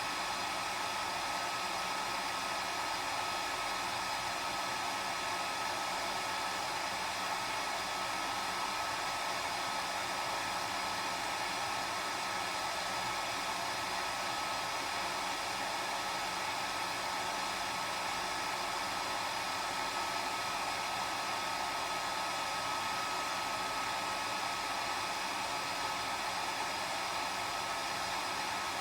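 Hair dryer running steadily: an even rush of blown air with a steady high whine from the motor and fan.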